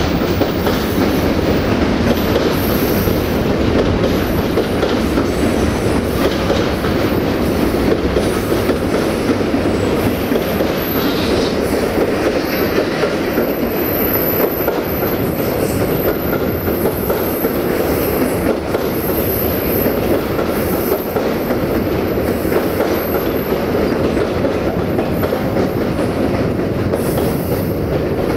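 Container wagons of a long intermodal freight train rolling past: a steady rumble and clatter of steel wheels on the rails, with a faint high wheel squeal coming and going midway.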